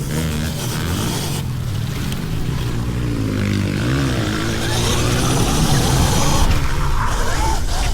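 Pit bikes running and revving, their pitch rising and falling, with a rough rushing noise underneath; it gets louder in the second half.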